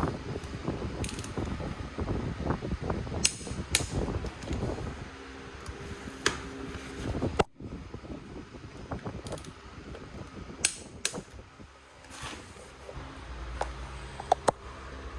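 Hand work on motorcycle parts: a series of sharp metallic clicks and knocks with handling noise in between, over a steady low hum.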